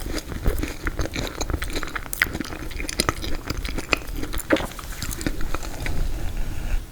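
Close-up chewing of frozen tiramisu: hard, icy bites crunching and crackling in the mouth, many small sharp clicks over a wet chewing sound.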